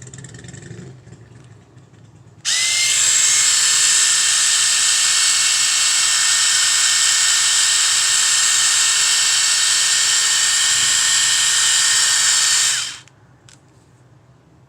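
Hizek battery-powered epilator switched on and running at a steady high whir for about ten seconds, then switched off suddenly; a couple of faint clicks follow.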